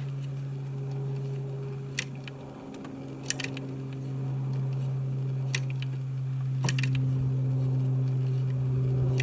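Five or so sharp clicks and taps from hands working the Saito radial engine while priming its carburettor, over a steady low hum.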